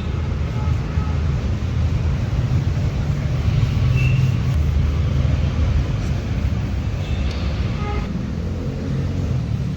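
Steady low mechanical rumble, like an engine running close by, with a few faint clicks near the end.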